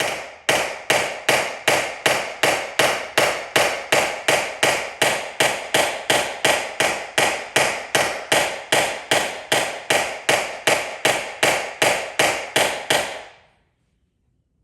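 Small hammer tapping metal in a steady, even rhythm of about three light taps a second, each with a short ring. It stops about 13 seconds in. This is the kind of tap-down work used in paintless dent repair to knock down high spots in a vehicle body panel.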